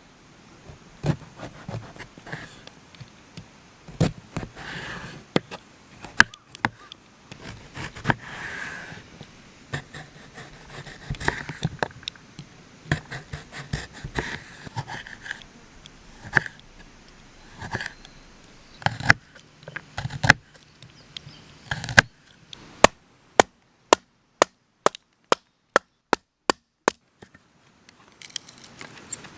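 Sharp chopping strokes on wood: irregular knocks and handling sounds at first, then from about two-thirds of the way through an even run of crisp chops, about three a second.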